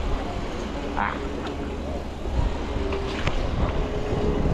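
Steady low rumble of road traffic and outdoor noise, with a few brief high chirps or squeaks about a second in and again near the three-second mark.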